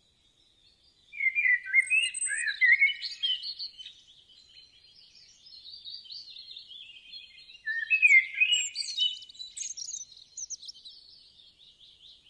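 Songbirds singing: quick chirping, warbling phrases in two louder bouts, with softer chirps between them.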